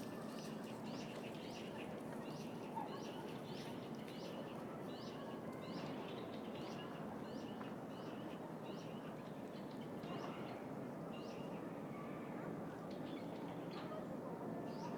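A small songbird chirping over and over, short high notes a little more than one a second, over the steady hum of distant city traffic.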